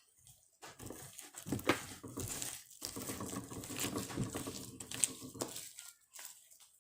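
Homemade slime being squished and stretched by hand, giving a dense run of crackling and popping that stops about a second before the end.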